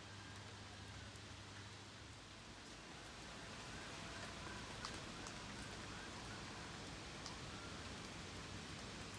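Steady rain falling, a soft even hiss with a few sharper drips, the clearest about halfway through and again near the end.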